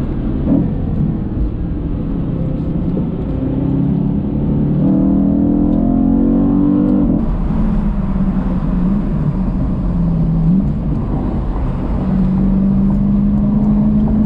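BMW E92 M3's V8 heard from inside the cabin under hard acceleration, over road and tyre rumble. The engine note climbs for a few seconds, drops sharply about seven seconds in as the car shifts up, climbs again and holds steady near the end.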